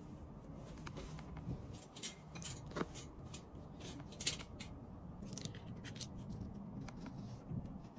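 Short, crisp snips and crackles scattered irregularly, about a dozen, from items and plastic packaging being handled at close range.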